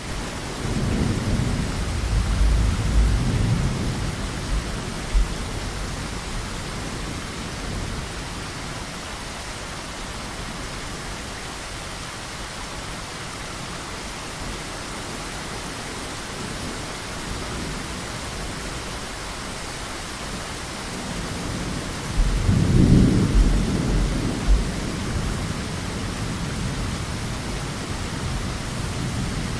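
Steady heavy rain falling, with two rolls of thunder rumbling low: one right at the start lasting several seconds, and a louder one about three quarters of the way through.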